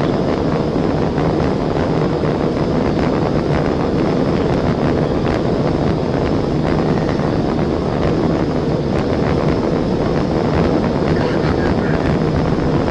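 Steady engine, tyre and wind noise inside a police cruiser's cabin at high speed during a pursuit.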